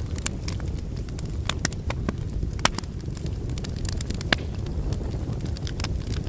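Wood fire burning in a fireplace: a steady low rumble of flames with irregular sharp crackles and pops of the logs, two of them louder about two and a half and four seconds in.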